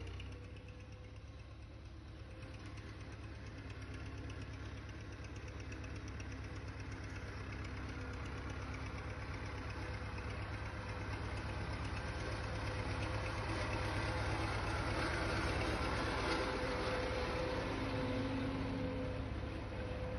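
A vehicle engine running steadily, growing gradually louder to a peak about three quarters of the way through, then easing off slightly.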